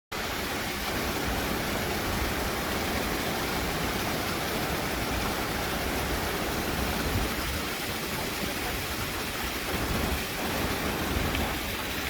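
Steady rushing water, a loud even roar with a churning low rumble, typical of flood water running down a wadi.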